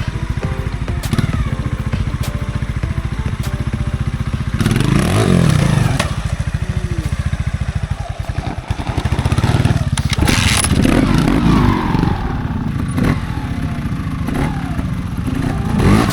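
Trials motorcycle engine running and revved hard in short bursts, the revs sweeping up and back down about five seconds in, again around ten to twelve seconds in, and at the very end.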